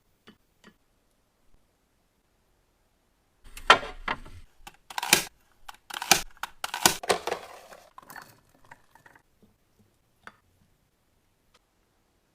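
Kitchen handling sounds: a few faint clicks, then from about three and a half seconds in a several-second run of loud knocks and clatters with rustling as items are handled and set down, tapering off into a few scattered clicks.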